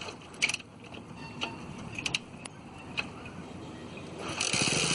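Hero Honda motorcycle being kick-started: a few metallic clicks and clunks from the kick-start lever, then the single-cylinder engine fires and catches about four seconds in, running on with a fast, even exhaust beat.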